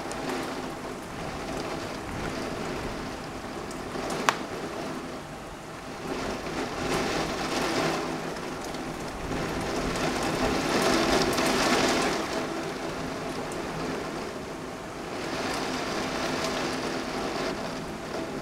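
Heavy rain beating against a window pane in a severe thunderstorm. It swells louder in gusts about seven, eleven and sixteen seconds in, with a single sharp tap about four seconds in.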